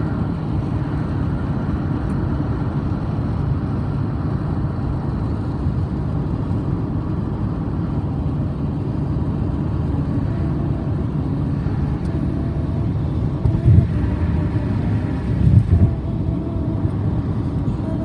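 Steady low rumble of a car driving on the road, heard from inside the car, with two brief louder thumps about three-quarters of the way through.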